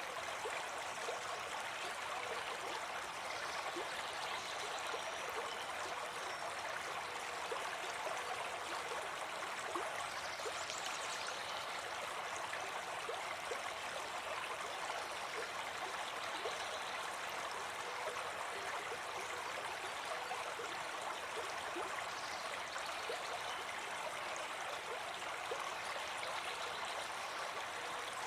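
River water flowing and babbling over stones, a steady rushing noise with small gurgles and splashes.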